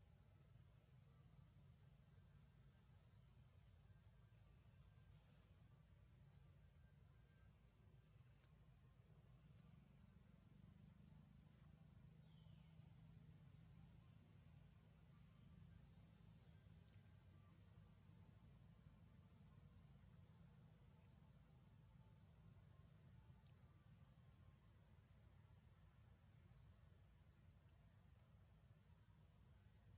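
Faint, steady high-pitched insect chorus in forest, pulsing about once a second, over a low background rumble.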